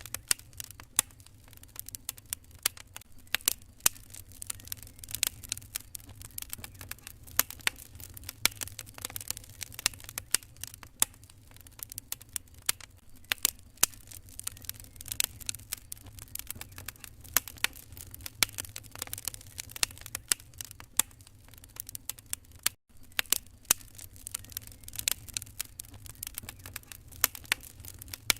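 Wood fire crackling in a fireplace: irregular sharp pops and snaps over a low steady rumble. The sound cuts out for an instant about five seconds before the end.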